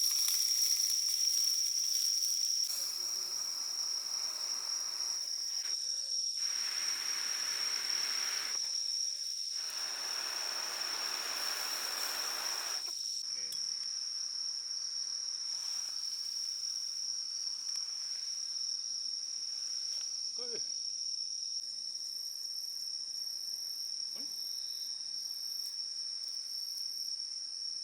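Night insects trilling in one steady high-pitched tone throughout. A soft hiss comes and goes during the first half.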